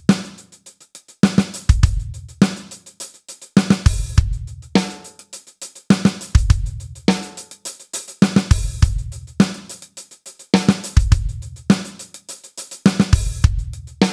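Drum kit playing a steady groove: sixteenth notes on the hi-hat over bass drum and a snare backbeat, with two extra snare strokes on the 4 and the 4e.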